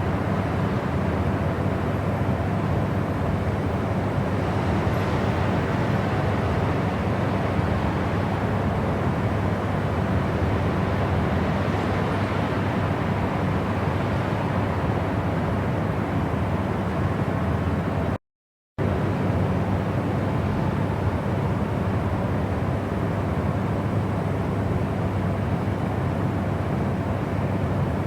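Steady, even rumbling noise with most of its weight in the low end, a relaxation noise track. It cuts to total silence for about half a second some eighteen seconds in, then resumes unchanged.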